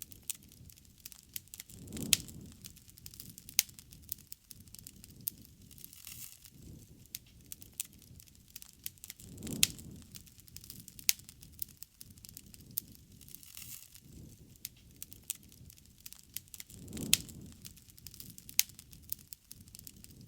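Wood bonfire crackling, with many sharp pops and snaps. Under them a low rush of flame swells up three times, about every seven seconds.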